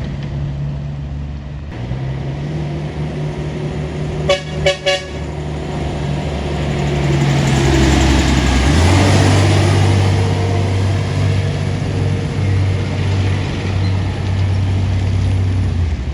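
Heavy truck engine running under load on a steep hill, with a vehicle horn giving three quick toots about four seconds in. Around eight seconds a vehicle passes close and the engine note drops to a lower, steady pitch.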